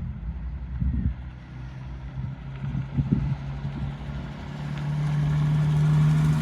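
Classic car engine running as it drives slowly onto the field, growing steadily louder over the last two seconds as it comes close. A few low thumps about a second and three seconds in.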